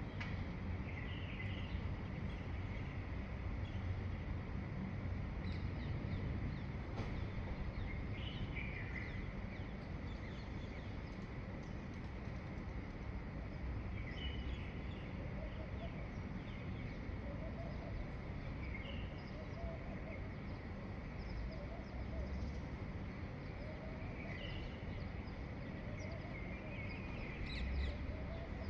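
Wild birds calling at dawn: short chirps repeated every few seconds, with a lower wavering call joining in about halfway through, over a steady background rumble.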